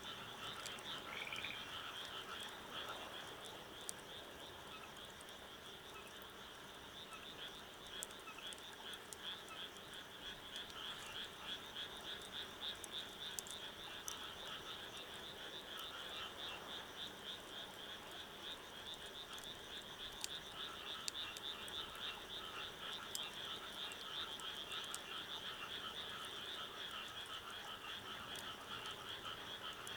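A chorus of many frogs calling in fast, continuous pulsed trills, with a few short rising calls near the start. Occasional faint sharp crackles of a wood fire sound over the chorus.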